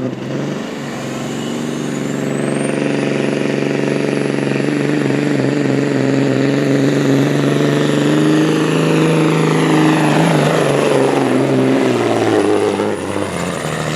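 Turbocharged engine of a pulling truck or tractor running hard under load down the track, with a high turbo whistle that rises over the first few seconds and then holds. Near the end the pitch sweeps and the engine drops away as the run ends.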